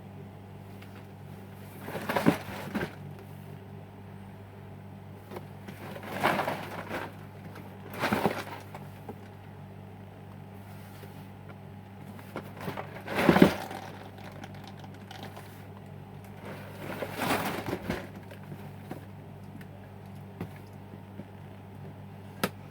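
Cardboard Lego set box and its packaging being handled and opened, in five short rustling, tearing bursts with a sharp click near the end, over a steady low electrical hum.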